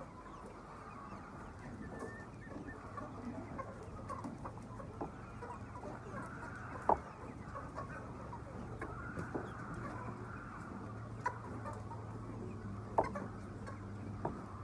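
A flock of chickens clucking, many birds calling at once, over a steady low hum. Three sharp clicks stand out, about seven, eleven and thirteen seconds in.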